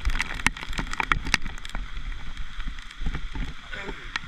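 Heavy rain, with large drops striking the camera and the leaves overhead in sharp, irregular taps, over the low rumble of wind buffeting the microphone.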